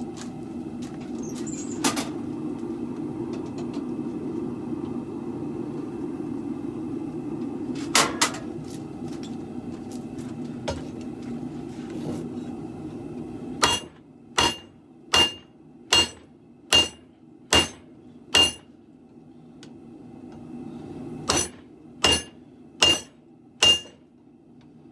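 Hammer blows ringing on steel and anvil as a sword blade is forged: a run of eight evenly spaced strikes, a short pause, then four more. Before the hammering there is the steady roar of the forge and a couple of single clanks, and the roar falls away as the striking begins.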